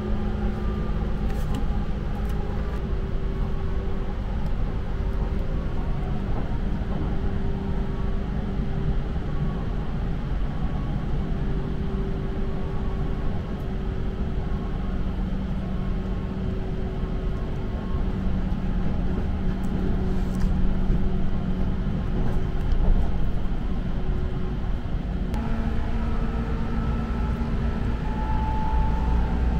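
Seibu New Red Arrow limited express train heard from inside the carriage while running: a steady rumble of the wheels on the rails with humming drive tones that shift in pitch, and a new set of higher tones starting a few seconds before the end.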